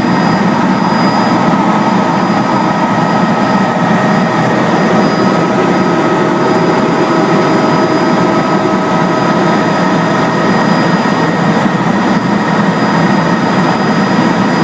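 Helicopter engine and rotor noise heard from inside the cabin: a loud, steady drone with several steady whining tones over it.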